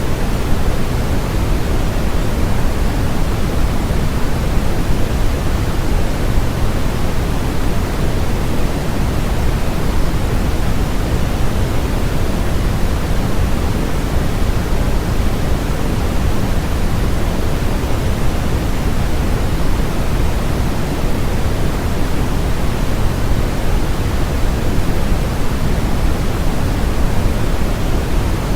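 Steady generated noise track, an even, unchanging hiss that is fuller in the low end than in the treble.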